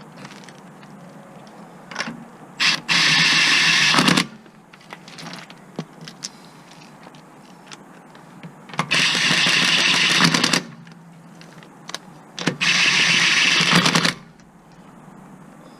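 Cordless power tool run in three bursts of about a second and a half each, with a few light clicks of tools between them.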